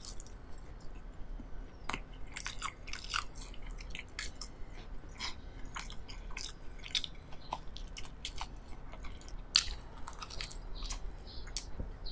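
A person chewing a bite of soft whole wheat raisin bread spread with strawberry jam, close to the microphone: a run of short, irregular clicking mouth sounds, with one louder click about three-quarters of the way through.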